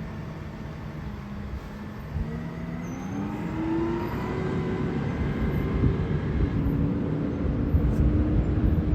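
Garbage truck engine running; its pitch rises about two to four seconds in, then holds steady while the sound grows louder toward the end.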